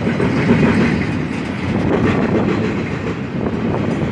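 Empty intermodal well cars of a Florida East Coast Railway freight train rolling past: a steady rumble of steel wheels on the rails with scattered clicks.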